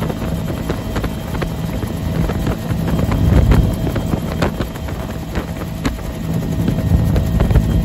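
Bell UH-1 Huey helicopter in flight: its T53 turbine and rotor running with a steady low drone and a mid-pitched tone, with wind buffeting the microphone. The noise swells a little about three and a half seconds in and again near the end.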